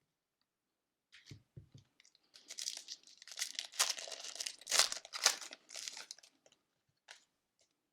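A sealed hockey card pack wrapper being torn open and crinkled, with a run of crackling tears over several seconds.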